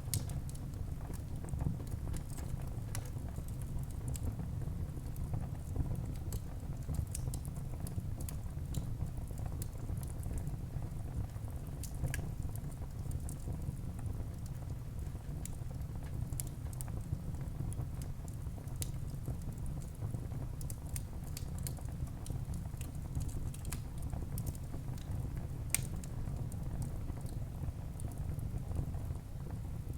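Wood fire burning in a fireplace: a steady low rumble of flames with frequent sharp crackles and small pops at irregular moments, a louder pop about 26 seconds in.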